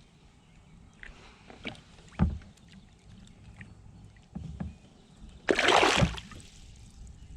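Scattered knocks and bumps on a kayak hull as gear and the angler shift about, with a brief louder rush of noise about five and a half seconds in.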